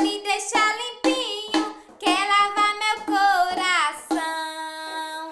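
A woman singing a Portuguese children's bath song in short sung phrases, holding one long note near the end.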